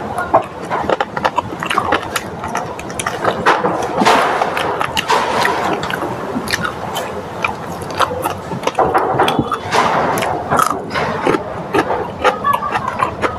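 Close-up eating sounds: fried food being chewed, in a dense, irregular run of crisp crunches and wet mouth noises.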